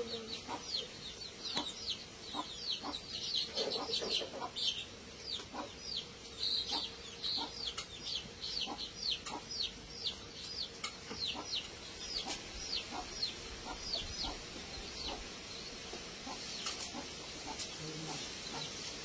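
A bird chirping: a long run of short, high, falling chirps, about two or three a second, fading away in the last few seconds.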